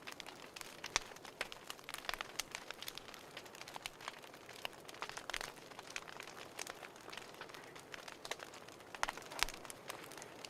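Wood fire crackling in a fireplace: irregular sharp pops and snaps over a soft hiss, a few louder pops standing out.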